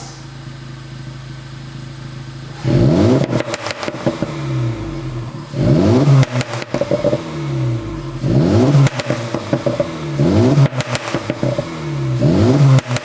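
Acura Integra Type S's turbocharged four-cylinder engine idling steadily through its exhaust, then revved five times in quick blips, each rising and falling in pitch with sharp pops and crackles as the revs drop.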